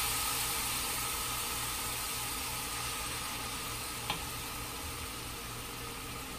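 Chicken thigh pieces sizzling as they fry in a large aluminium pot, the sizzle slowly dying down, with a single light knock about four seconds in.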